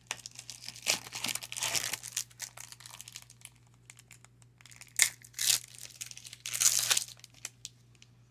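Trading-card pack wrapper crinkling and tearing as a pack is opened, in irregular bursts: one about a second in, then two more shortly after five seconds in.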